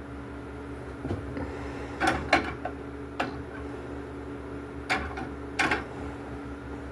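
A handful of short knocks and clatters, about six spread over several seconds, over a steady background hum.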